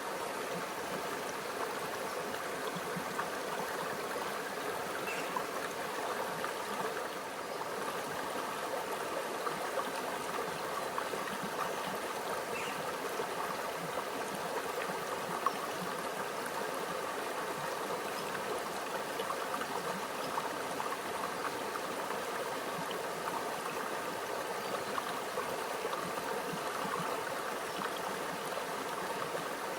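A small stream flowing and trickling steadily over rocks, a continuous gentle babble with small splashes and drips now and then.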